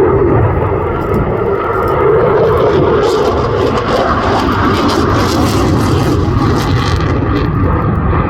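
RAF Eurofighter Typhoon's twin EJ200 jet engines running loud during a display pass, a deep, steady jet noise with a crackling rasp that builds from about three seconds in and eases off near the end.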